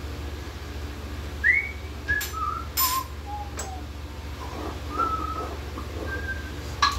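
A series of short whistled notes at shifting pitches, starting about a second and a half in, with a few sharp clicks in between and a steady low hum underneath.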